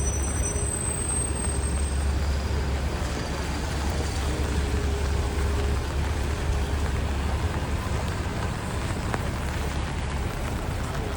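Steady city street traffic: a constant low rumble of passing vehicles with the hiss of rain and tyres on wet pavement.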